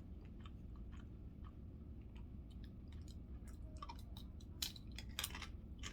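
A person chewing food close to the microphone: faint, irregular little mouth clicks and crunches, busier near the end.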